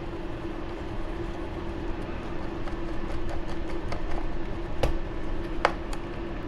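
Scattered light clicks and taps of small screws and a hand driver being handled while the screws are fitted into an RC buggy's metal mount, with two sharper clicks near the end. A steady background hum runs underneath.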